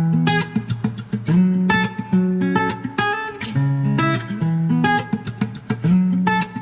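Guitar music: strummed chords in a steady rhythm over held bass notes, with no singing.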